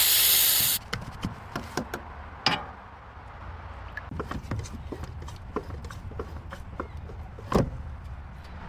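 A short loud hiss of air, then scattered clicks and knocks, two of them louder, over a low steady hum.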